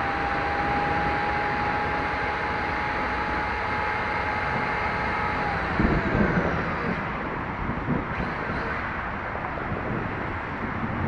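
A 1/5-scale RC motorcycle's motor whining at a steady high pitch over a constant wet hiss, the whine falling away about six seconds in, followed by a few knocks.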